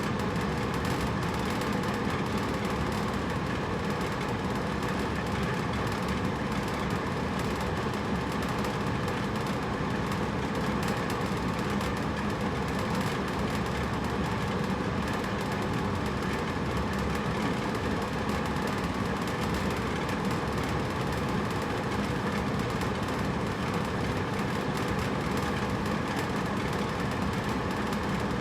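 Hotel room air conditioner running steadily: a constant fan rush with a low hum.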